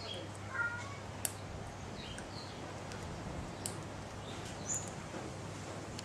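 A bird giving scattered short, high chirps, with a couple of sharp clicks over a steady low hum.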